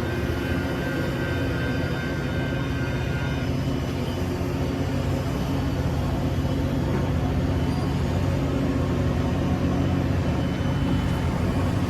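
A train's diesel engine running steadily, with a high thin whine over it that stops about three and a half seconds in.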